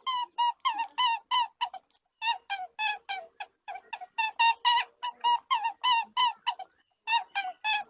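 A rapid series of short, high-pitched animal calls, about three or four a second, with a brief break about two and a half seconds in and another near the end.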